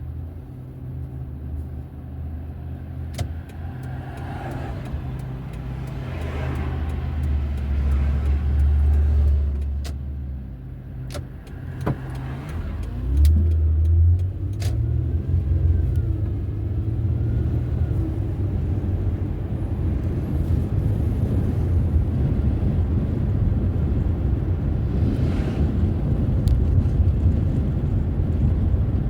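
Car engine and road noise while driving. The engine note shifts and swells, with a surge about halfway through, then settles into a steady rumble.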